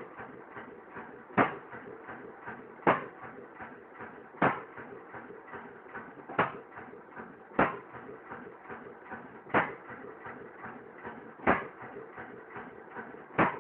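3 hp Massey-Harris Type 2 single-cylinder stationary engine running and hitting-and-missing, firing with a sharp bang about every one and a half to two seconds while it coasts between firings with a fainter mechanical clatter.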